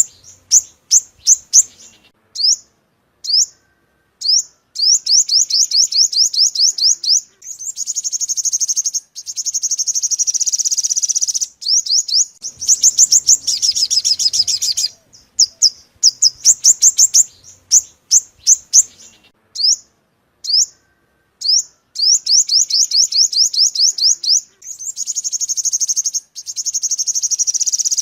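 Yellow-bellied sunbird singing: series of sharp, high chirps that run into fast trills, with short pauses between phrases, as used for a bird-trapping lure call.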